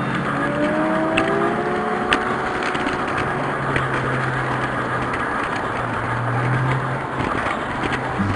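Tinplate model train running on its track, heard from the locomotive: a steady rattling clatter with scattered clicks over a low motor hum, with a few rising tones in the first two seconds.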